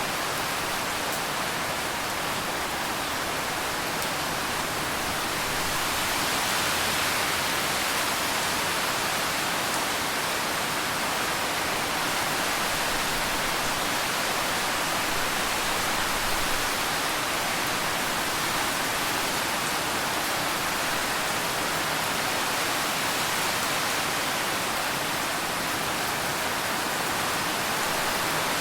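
Steady rain falling, an even hiss of rainfall that grows slightly louder about six seconds in.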